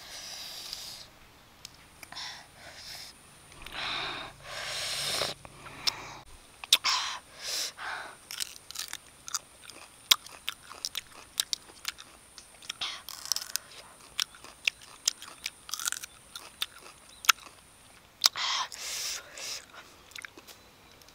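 Close-up chewing of raw sour flower buds: many short, sharp crunches and bites, with a few longer breathy hisses in between.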